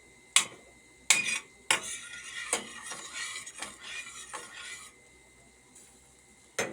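A spoon knocks sharply against a pot three times. It then scrapes and stirs inside the pot for about three seconds, and there is one more knock near the end.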